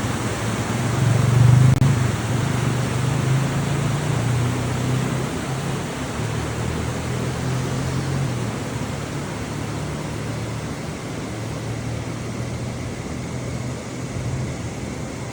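A motor vehicle driving: steady engine hum and road noise, louder for a moment about a second in, then easing off slowly.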